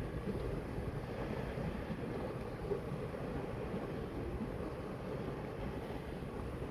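Steady wash of the sea mixed with wind rumbling on the microphone, an even low noise without distinct wave breaks.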